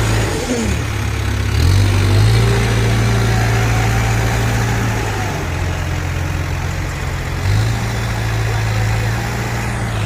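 Heavy diesel machine engine running at a steady speed, its note dipping and coming back up about a second in, then shifting slightly a couple of times.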